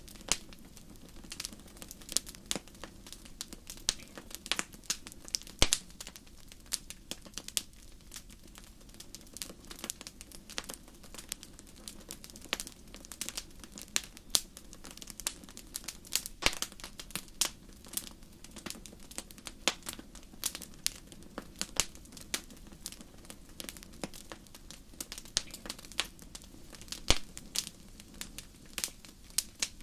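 Wood fire crackling in a fireplace: irregular sharp pops and snaps, several a second and a few louder than the rest, over a steady low background.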